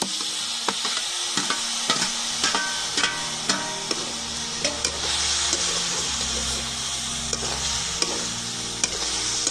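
Raw banana pieces and chopped tomato sizzling in hot oil in an iron kadhai, with repeated clinks and scrapes of a perforated metal ladle stirring against the pan.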